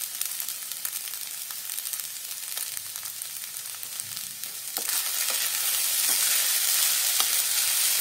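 Soaked sabudana (tapioca pearls) with crushed peanuts sizzling in oil in a nonstick kadhai. About five seconds in the sizzle gets louder as a wooden spatula starts stirring, with a few light taps of the spatula on the pan.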